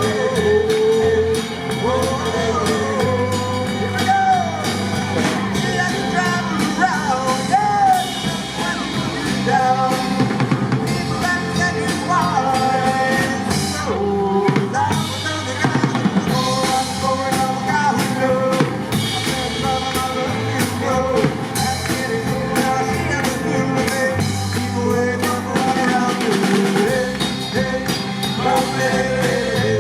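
Live band music with a drum kit keeping the beat under a melodic lead line.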